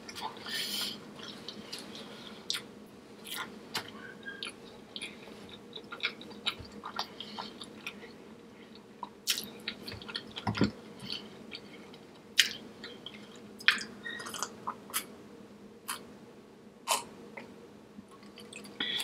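Close-miked chewing and mouth sounds of someone eating seafood-boil food, with short wet smacks and clicks coming at irregular moments.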